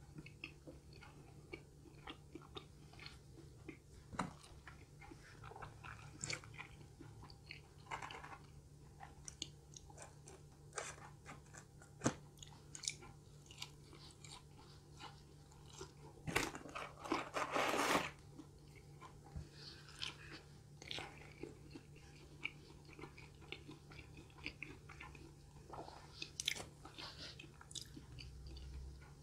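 A person biting and chewing crunchy fried food close to the microphone: many short crisp crackles, with a louder stretch of crunching about sixteen seconds in.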